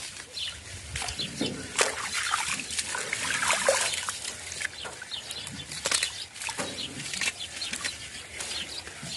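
Birds chirping and calling in quick, irregular short notes, mixed with brief clicks and rustles.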